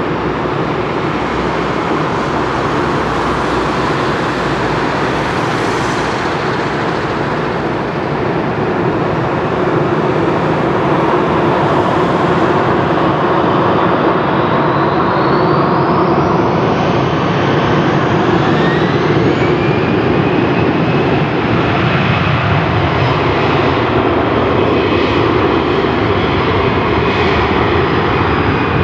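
Airbus A320's jet engines running loud with a steady rush. About halfway through, a whine rises in pitch and then holds: the engines spooling up to takeoff thrust.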